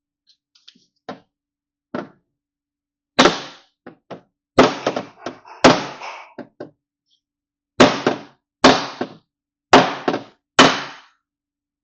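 Small body hammer striking the sheet-metal door skin of a Chevy truck from behind to knock out a dent. There are about a dozen sharp metallic knocks at uneven intervals, some fainter, each with a brief ring.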